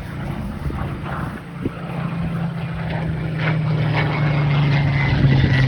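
Supermarine Spitfire Mk XVIII's Rolls-Royce Griffon V12 engine droning as the aircraft flies by, growing steadily louder, with its pitch dropping near the end as it passes.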